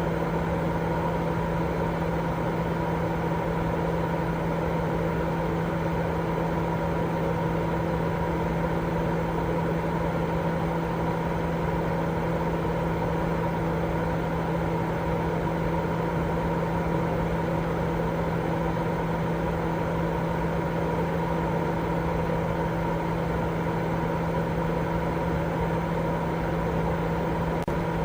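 Steady, unchanging white noise for baby sleep, weighted toward the low end, with a constant low hum and a couple of steady tones running through it.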